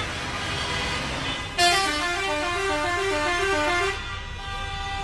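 Vehicle horn sounding over road noise: a steady blast, then about two seconds in it gets louder and alternates rapidly between pitches for about two seconds, then settles back to a steady tone.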